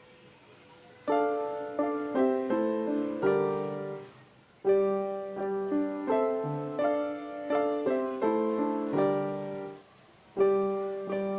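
Piano music: struck notes and chords in short phrases, starting about a second in and pausing briefly twice.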